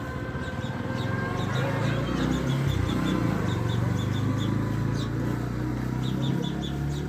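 Small pet parrots kept as love birds chirping in quick, short, high-pitched notes, over a steady low hum.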